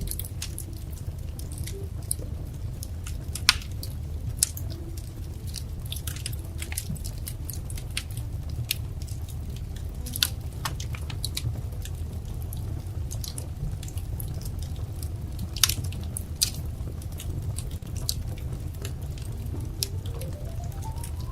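Wood fire crackling: scattered snaps and pops over a steady low rumble, with a couple of louder pops, one a few seconds in and another past the middle.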